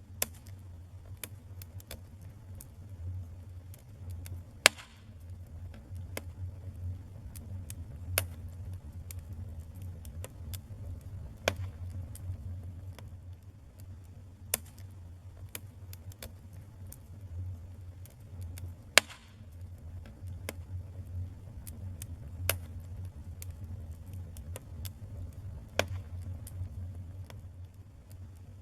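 Wood fire crackling: sharp pops every three to four seconds, the loudest about five and nineteen seconds in, with scattered small ticks between them over a steady low rumble.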